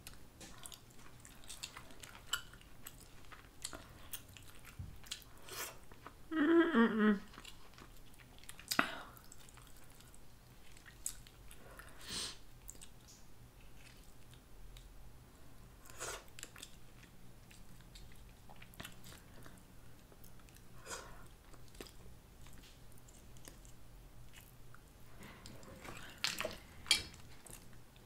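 Close-up eating sounds: chewing Dungeness crab meat, with scattered small clicks and crackles as pieces of crab-leg shell are picked apart by hand. About six seconds in there is a brief hum from the eater's voice, falling in pitch.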